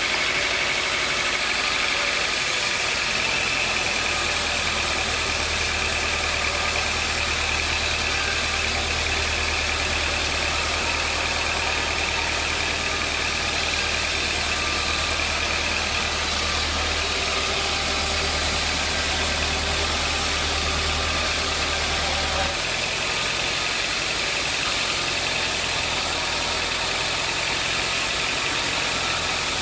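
Sawmill machinery running steadily, with a constant mechanical drone. A deep low hum drops out suddenly about two-thirds of the way through.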